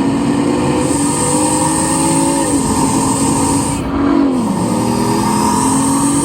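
Bugatti Chiron's 8.0-litre W16 engine pulling hard under acceleration, its pitch climbing slowly and dropping at gear changes about two and a half and four seconds in.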